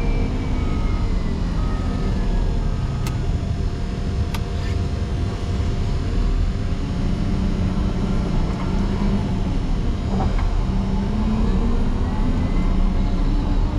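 Caterpillar 140M motor grader's diesel engine working under heavy load as the blade pushes into a deep snow drift, its pitch sagging over the first few seconds as it is pulled down and climbing again near the end.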